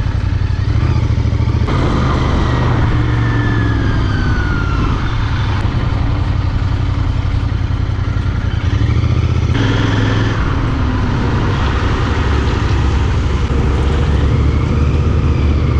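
A Royal Enfield Continental GT 650's parallel-twin engine running steadily while the bike is ridden. Its note changes abruptly about two seconds in and again about ten seconds in.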